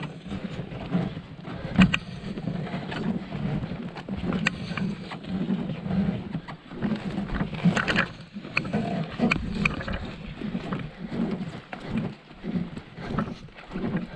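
Paddling a small canoe or pack boat: irregular paddle strokes and water sloshing against the hull, with scattered knocks.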